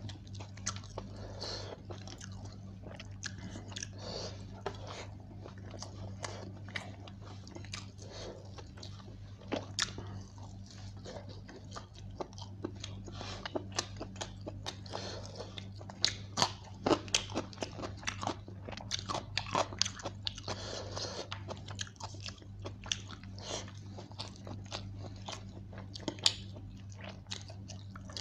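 Close-up eating sounds of a person chewing chicken biryani by hand: wet chewing, lip smacks and sharp mouth clicks, with a steady low hum underneath.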